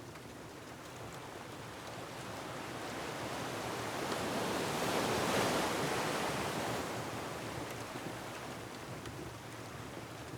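Ocean waves breaking on a rocky shore, one surge swelling to a peak about halfway through and washing back down, over a steady hiss with a few faint crackles.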